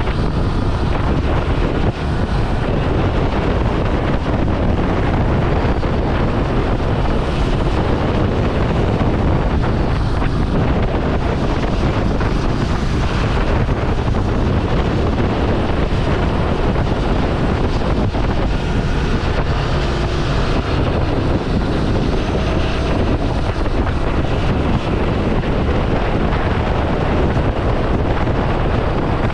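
Ducati Scrambler Sixty2's air-cooled 399 cc L-twin engine running as the motorcycle is ridden at a steady pace, heavily mixed with wind buffeting on the helmet or bike-mounted action camera's microphone.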